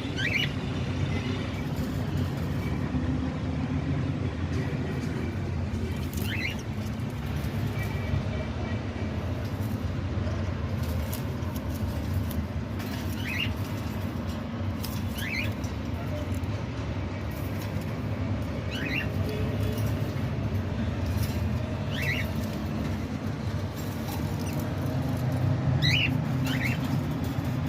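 A small bird giving short, high single chirps every few seconds over a steady low rumble like distant traffic.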